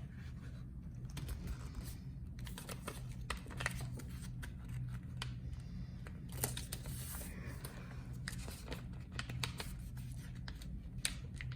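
A sheet of paper being folded and creased by hand: irregular crinkling and rustling with scattered sharp crackles, over a low steady hum.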